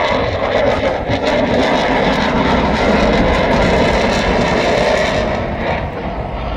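Military jet aircraft in flight: loud, steady jet engine noise.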